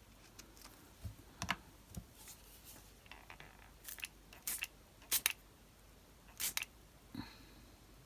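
Card stock and craft tools being handled on a work surface: scattered short clicks and snips, some in quick pairs.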